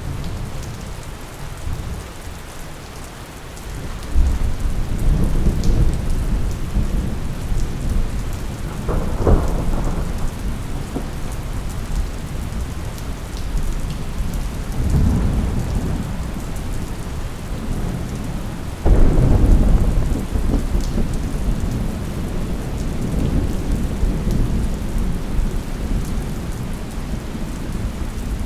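Steady rain falling, with thunder rumbling through it: a deep roll breaks in suddenly about four seconds in, a sharper crack comes about nine seconds in, and a second loud rumble starts abruptly near nineteen seconds before fading slowly.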